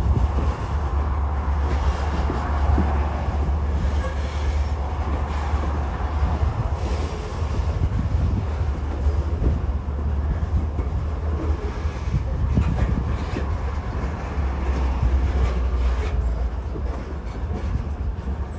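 Norfolk Southern freight train rolling past: a steady, heavy low rumble of wheels on rail, with scattered clicks as the cars pass over rail joints.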